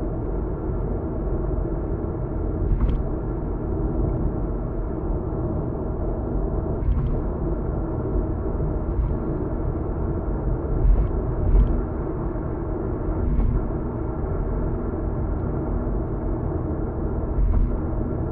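Car cabin road and engine noise while cruising on an expressway: a steady low rumble. Now and then a short thump from the tyres, about seven in all.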